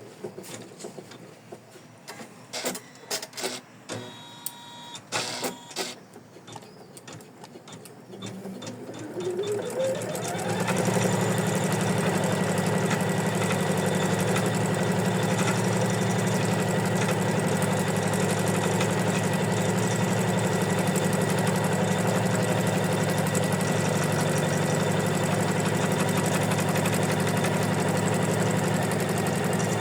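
Embroidery machine stops stitching, and for several seconds there are only scattered clicks and knocks. About eight seconds in it speeds up with a rising whine and then runs steadily, stitching the design.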